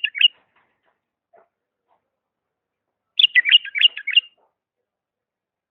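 Diyala bulbul (Iraqi white-eared bulbul) singing: a phrase of quick, clear warbled notes just ending at the start, then after a pause a second fuller phrase lasting about a second.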